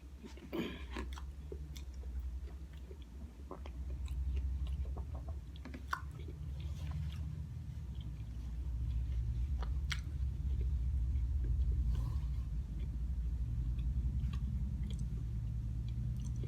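Close-up chewing and mouth sounds of a person eating oatmeal topped with Cookie Crisp cereal, with scattered small clicks. Under it runs a low rumble of cars passing outside, swelling and easing.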